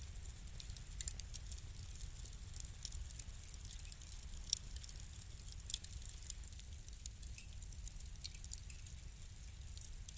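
Wood fire crackling: a steady scatter of small sharp pops and snaps, with two louder snaps near the middle, over a low rumble.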